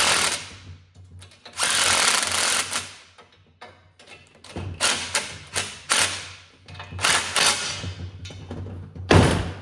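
Handheld impact driver running in several short bursts, the longest about a second, with a short loud burst near the end.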